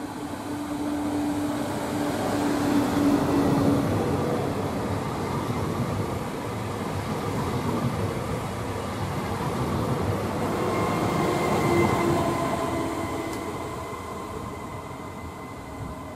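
Trenitalia Pop electric multiple unit running through the station at speed. The rush of wheels on rail and air swells, stays loud and then fades, with a faint steady whine underneath.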